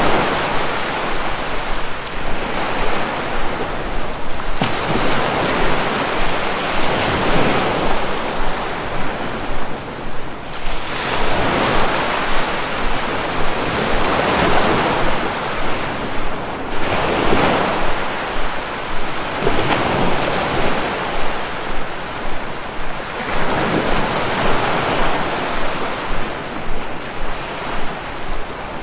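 Sea waves breaking and washing on the shore, one surge after another every few seconds.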